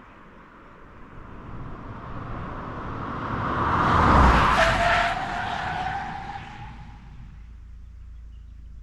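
A car, the MG ZST with its 1.3-litre turbo three-cylinder, driving past: engine and tyre noise swell to a peak about four seconds in, then drop in pitch as it passes and fade away.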